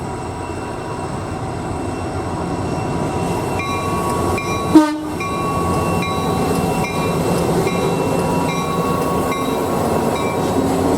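A train running with a steady rumbling rush. From about three and a half seconds in, a tone sounds on and off over and over, and there is one sharp loud bang about five seconds in.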